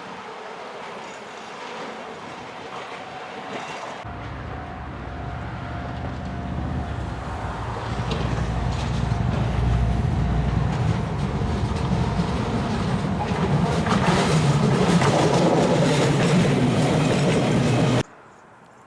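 Low-floor tram-train running on the rails, growing steadily louder, then cut off abruptly near the end.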